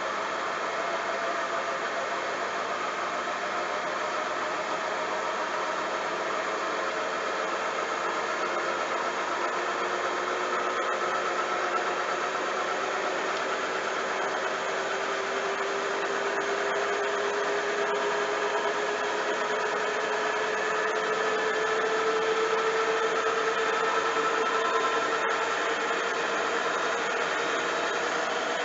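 Bosch washing machine running with a steady whirring motor whine whose pitch climbs slowly throughout as the drum speeds up.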